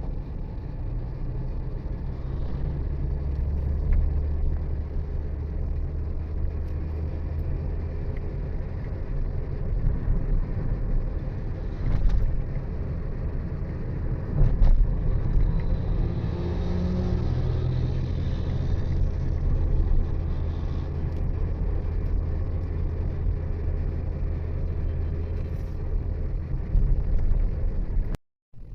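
Steady engine hum and road noise of a moving vehicle, with a few short knocks about twelve and fifteen seconds in. The sound breaks off for a moment near the end.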